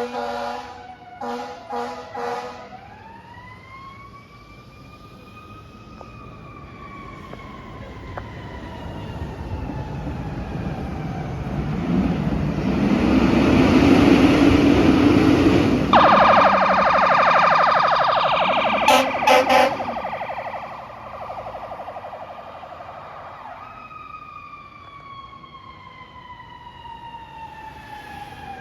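Fire apparatus responding under sirens and air horns. It opens with a string of air horn blasts, then a mechanical siren winds up and slowly winds down. About halfway the apparatus passes loudest, a fast electronic yelp siren with more horn blasts comes near the 17–20 second mark, and a siren winds down again toward the end.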